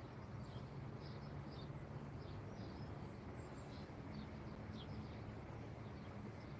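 Small birds chirping in short, scattered high calls over a steady low rumble of distant traffic.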